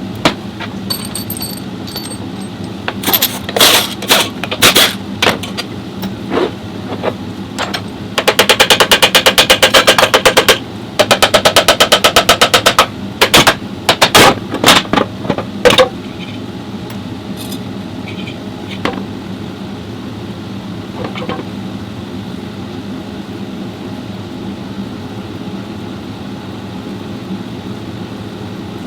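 Impact wrench hammering in two bursts of about two seconds each near the middle, amid scattered metal clanks and knocks of tools and transmission parts during teardown of a CVT transmission. A steady low hum runs underneath.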